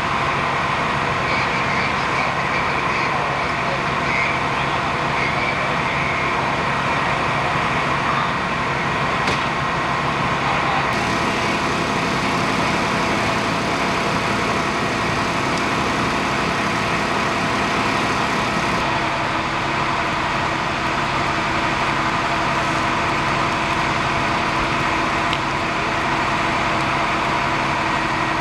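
Large truck engine idling steadily, a constant hum of several held tones, its note shifting slightly a little over a third of the way in and again about two-thirds in.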